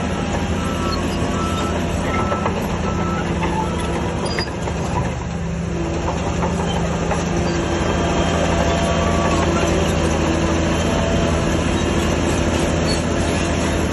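Heavy earthmoving machine's diesel engine running steadily, growing a little louder about halfway through. A backup alarm beeps in the first few seconds.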